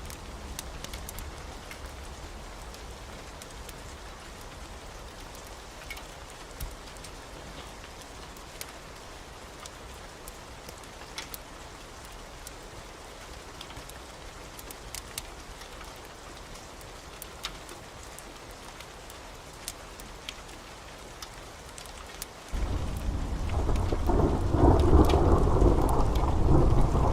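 Steady rain with scattered sharp clicks. About 22 seconds in, a loud roll of thunder starts suddenly, builds and goes on rumbling to the end.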